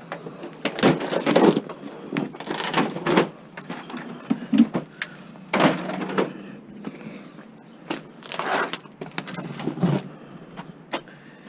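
Plastic TV casing being worked apart by hand: four rough cracking, scraping bursts about a second long, with sharp clicks and knocks between them.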